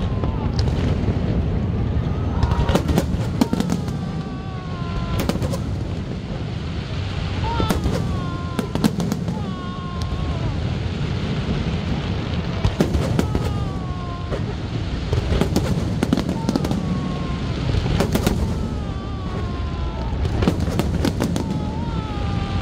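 Aerial fireworks display: shells bursting in clustered volleys of sharp bangs and crackles over a continuous low rumble, with falling whistle-like tones between the volleys.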